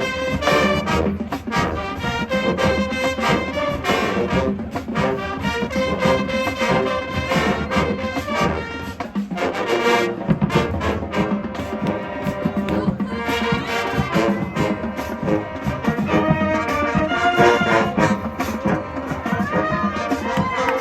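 High school marching band playing: brass section holding loud pitched lines over steady drumline strikes.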